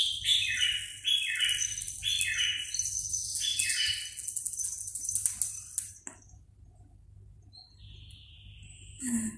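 A bird chirping: a quick run of repeated high, falling notes, several a second, that stops about six seconds in, then one fainter call near the end.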